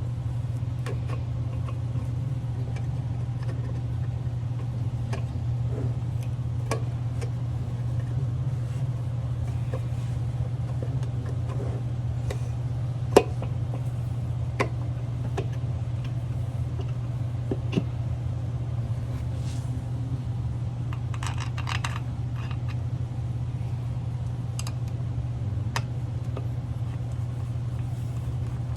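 A steady, even low motor hum throughout, with scattered light metallic clicks and clinks on top. There is a sharper click about 13 seconds in and a quick run of ticks a little past 20 seconds.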